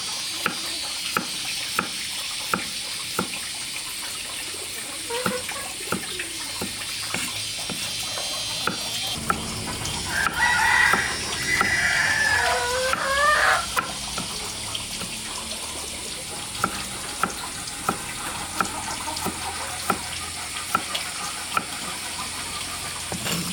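A rooster crowing once, about halfway through, a drawn-out call of a few seconds. Behind it runs a steady series of light knocks, about one every two-thirds of a second, over a constant hiss.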